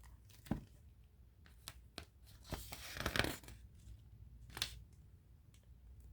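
Pages of a hardback picture book being turned and handled: a few soft taps and paper swishes, with one longer rustle of a page turning about three seconds in.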